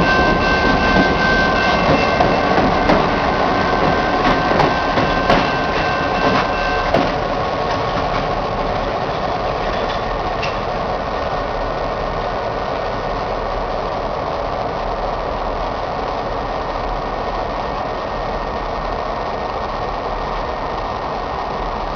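CN diesel locomotives moving on the rails: for the first seven seconds a high steady ringing with sharp clanks, then a steady engine rumble that eases a little.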